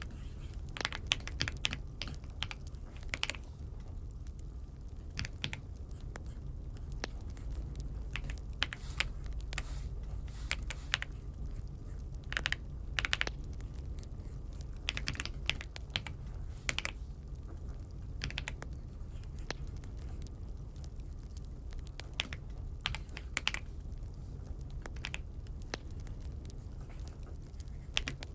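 Aula F75 (독거미 F75) mechanical keyboard being typed on: irregular keystroke clacks, some in quick runs and some with short pauses between them, over a steady low hum.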